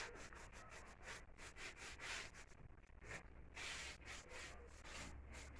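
Faint rubbing strokes against a hard surface, a few a second and unevenly spaced.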